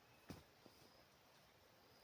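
Near silence: faint background hiss, with one soft knock about a third of a second in and a fainter one just after.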